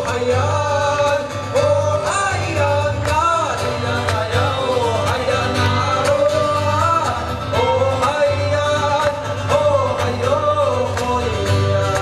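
Live band music with a lead vocalist singing long held, wavering notes over a steady bass line.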